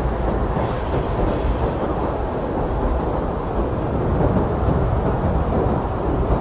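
Strong blizzard wind blowing steadily, a deep rumbling rush with little hiss.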